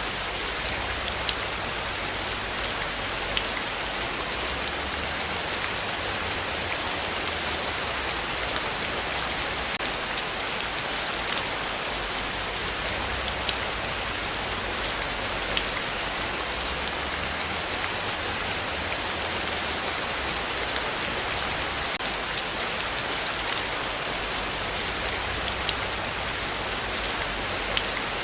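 Heavy rain falling steadily: a dense hiss with scattered sharp ticks of single drops, and a low rumble underneath that swells and fades.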